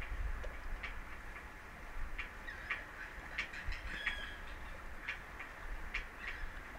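Birds calling: short chirps repeated at irregular intervals, some dropping in pitch at the end, over a low steady rumble.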